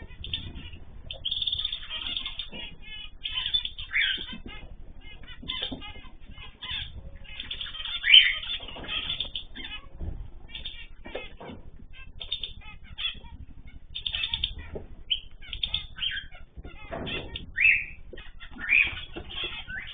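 Mixed cage birds, cockatiels, zebra finches, canaries and goldfinches, chirping busily with wings fluttering, and a few louder calls now and then.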